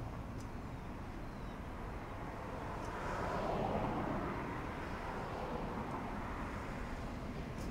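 Steady road traffic noise, swelling as a vehicle passes about three to four seconds in.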